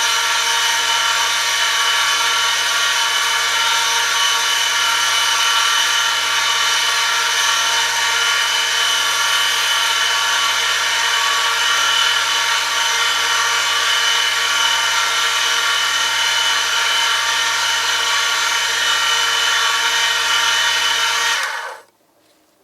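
Oil friction test rig with its motor running and a steel sample rubbing metal on metal under a 2 kg load, lubricated with two-stroke oil at 100°C. It gives a steady whine with several fixed tones and cuts off suddenly near the end as the motor stops.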